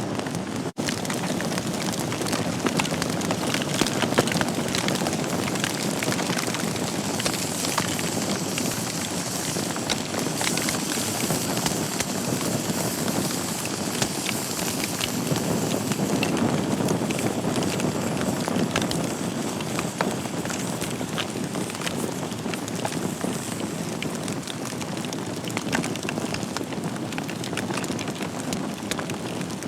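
Wood fire burning in a fireplace: a steady rush of flames with frequent small crackles and pops from the burning logs, with a momentary break just under a second in.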